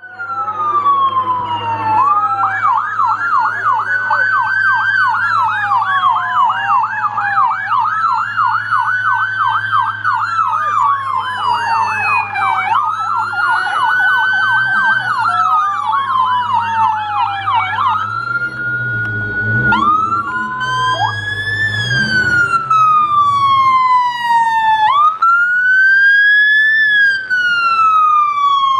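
American police car sirens from a convoy. A slow wail rises and falls every few seconds, overlapped by a rapid yelp from another car. The yelp stops about two-thirds of the way in, leaving only the wail.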